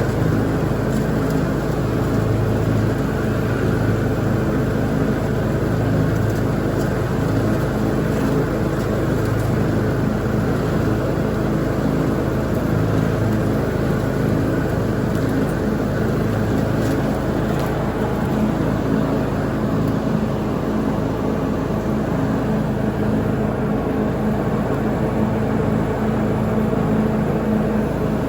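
Gasoline lawn mower engine running steadily at working speed while mowing, a constant drone with no change in pitch.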